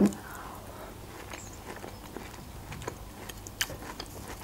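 Quiet close-up chewing of a fresh tomato slice, with scattered small wet clicks, and a sharper tap of a fork on the plate a little after three and a half seconds in.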